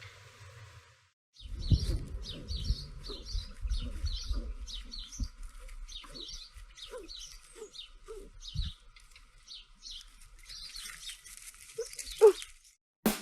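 A small bird chirping over and over, short high chirps about two a second, over a low rumbling background noise.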